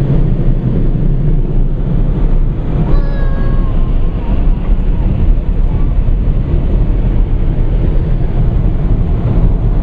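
Automatic tunnel car wash running over the car, heard from inside the cabin: a steady loud rush of water spray and spinning brushes with a low rumble. A child gives a brief high cry about three seconds in.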